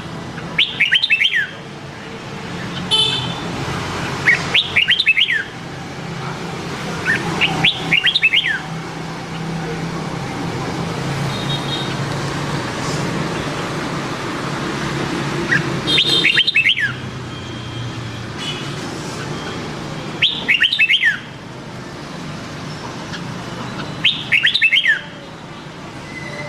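Red-whiskered bulbul singing loud, short phrases of quick notes, six times, about every three to four seconds.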